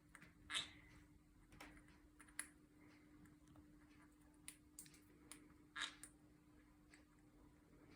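Green-cheeked conure's beak picking and crunching at a cardboard foraging toy and its sunflower seeds: faint, scattered clicks and small crunches, the loudest about half a second in and just before six seconds.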